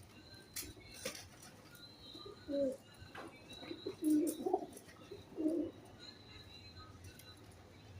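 Pigeons cooing in three short low calls, about two and a half, four and five and a half seconds in, with faint high chirps of small birds behind.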